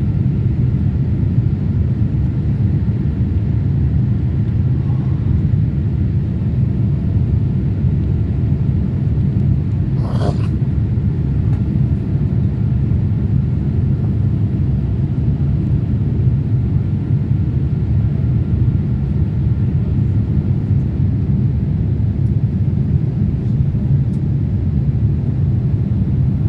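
Cabin noise inside a Boeing 787-8 Dreamliner in its climb after takeoff: a steady low rumble of engines and airflow. One brief sharp sound about ten seconds in.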